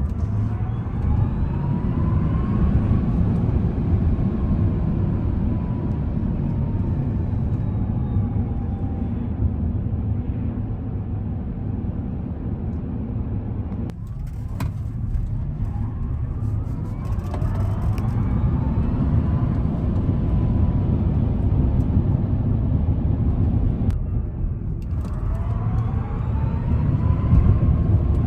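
Tesla Cybertruck AWD's electric drive motors whining, rising in pitch under hard acceleration and then slowly falling away, three times, over a heavy low rumble of road and wind noise.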